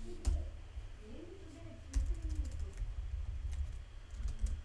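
Typing on a computer keyboard: scattered keystroke clicks, sparse at first and more frequent from about two seconds in.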